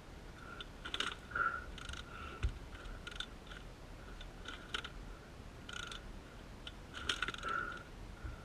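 Dirt bike kick-starter being worked over and over with the decompression lever in, giving irregular mechanical clicks and squeaks about once a second. The engine does not fire: it is hydrolocked with oil, and the kicking is clearing it out.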